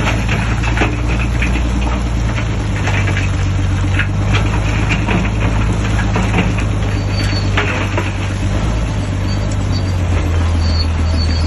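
Shantui DH17C3 bulldozer's diesel engine running steadily under load, with scattered clicks and crackles over it, the engine note dropping slightly near the end.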